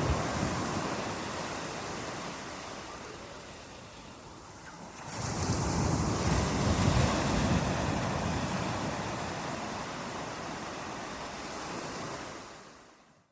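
Ocean surf: waves washing in and drawing back, with one wave surging about five seconds in and slowly ebbing away. The sound fades out at the very end.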